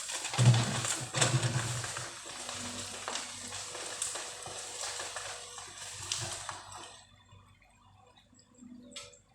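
Bamboo stalks and leaves crackling and rustling as heavy machinery pushes them down, dense for about seven seconds and then dying away.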